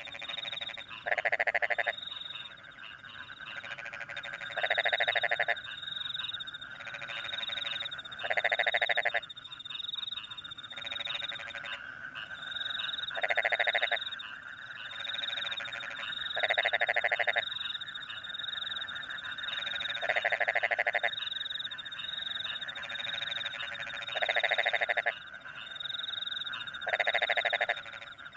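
Rice-paddy frogs calling after rain: a loud croak about every three to four seconds over a steady chorus of other frogs, with crickets chirping in a high, steadily pulsing trill.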